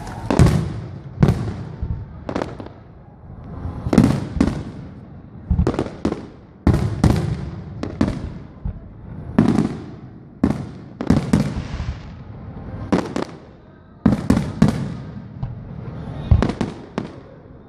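Aerial fireworks shells bursting in a rapid, irregular string of about twenty booms, each trailing off in an echo.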